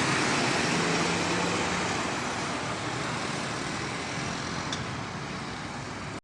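Road traffic noise from a heavy truck passing on the highway, its engine and tyre rumble slowly fading as it moves away.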